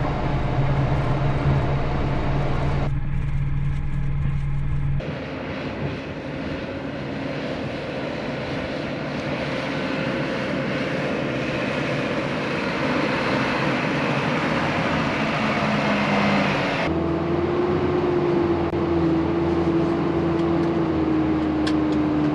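Isuzu NPS 4x4 truck's diesel engine running as it drives, heard in three clips joined by abrupt cuts about 5 and 17 seconds in; in the last clip the engine note slowly falls.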